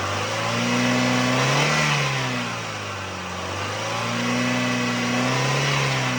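Toyota 1ZZ-FE 1.8-litre four-cylinder engine, warmed up, revved up and back down twice in gentle swells. It is being recorded for an engine noise or rattle that the owner is trying to trace.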